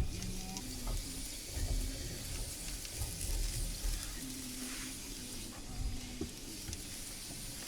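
Food sizzling on a cast iron griddle, a steady hiss.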